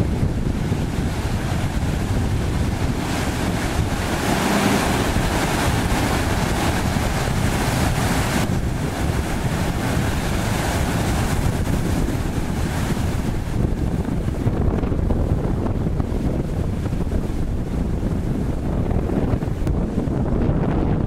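Wind buffeting the microphone and water rushing around a jet ski riding through surf. A brighter hiss of spray rises between about three and eight seconds in.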